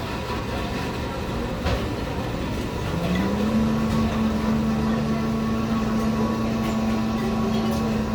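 Steady background noise with a machine hum that rises in pitch about three seconds in and then holds one steady low tone.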